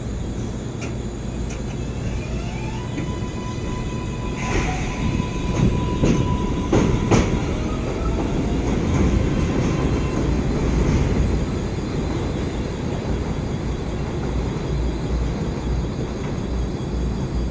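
7 line subway train running between stations. A steady rumble of wheels and motors, with a whine that rises in pitch during the first few seconds and then holds steady. Several sharp clacks from the wheels on the rails come about four to seven seconds in.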